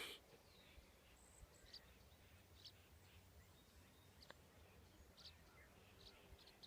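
Near silence, with faint, short, high bird chirps every second or so.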